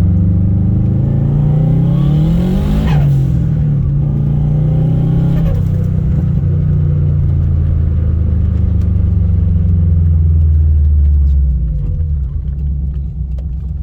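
Turbocharged 2006 Subaru STI flat-four engine accelerating with its pitch climbing. About three seconds in, the throttle closes and a TIAL blow-off valve vents with a short hiss. The engine then pulls on with a lower note that slowly falls, dropping off near the end.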